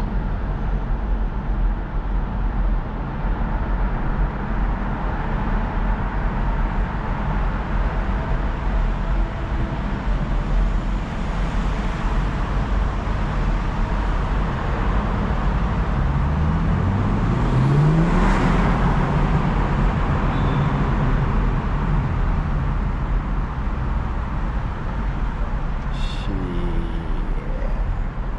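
A car driving, with steady engine and road noise. A little past halfway the engine pitch rises as it accelerates, and there are a few short clicks near the end.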